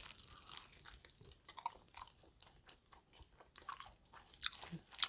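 Biting into and chewing a piece of fried chicken: irregular small crunches and mouth sounds, louder and denser about three and a half to five seconds in.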